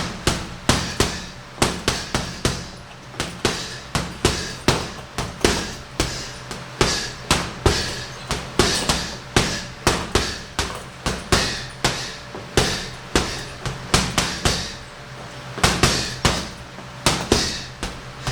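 Boxing gloves punching a heavy bag: sharp thuds in quick, uneven combinations, about two or three a second, over a faint steady low hum.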